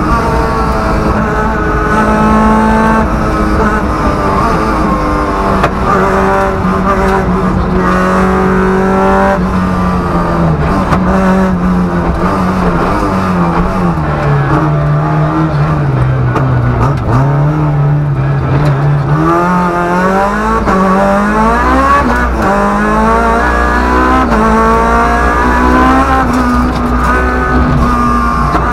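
Rally car engine heard from inside the cabin, run hard through the gears with step changes in pitch. About halfway the engine note sinks as the car slows, then climbs again in a run of rising sweeps as it accelerates away through the gears, over steady road and tyre rumble.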